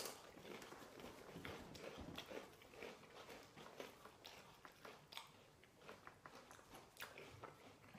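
Faint crunching of someone chewing crunchy cheese puffs (Cheetos Crunchy), a scatter of small crackles and clicks.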